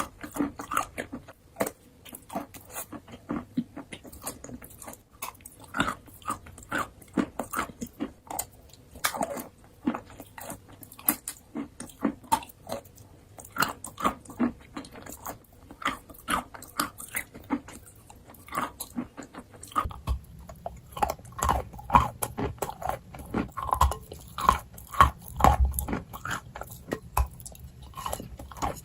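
A person biting and chewing crunchy pieces of edible chalk and clay close to the microphone, in a dense, irregular run of crisp crunches. The crunches grow heavier and louder in the last third.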